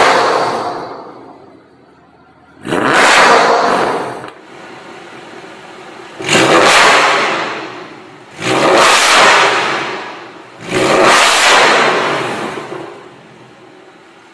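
Mercedes-Benz C63 AMG's 6.2-litre V8 revved hard five times through an iPE Innotech aftermarket stainless exhaust, each blip rising sharply and dying away over a second or two, with the engine idling in between.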